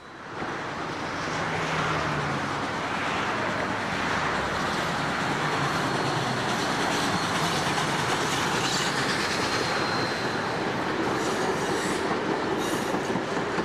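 A train rolling past: a loud, steady rumble and clatter of wheels on rail that starts abruptly and holds.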